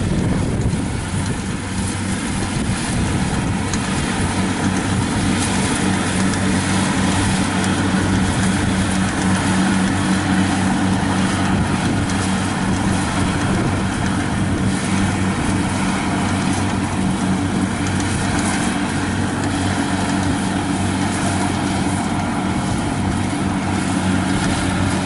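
Kubota DC-70 rice combine harvester running steadily in the field: a constant diesel engine hum with an even wash of machine noise over it, unchanging throughout.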